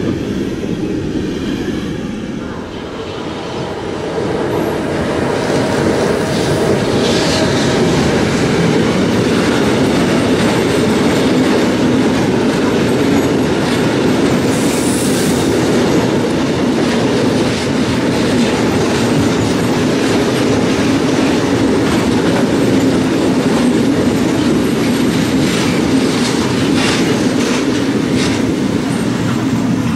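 Freight trains passing at speed: the last wagons of a container train, then, after a brief dip in level about two to four seconds in, a long train of open-top wagons hauled by an electric locomotive, a steady noise of steel wheels running on the rails.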